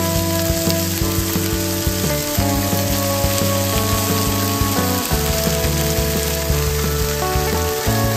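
Chicken, onion and carrot sizzling as they are stir-fried in a nonstick frying pan, under background music with a steady beat.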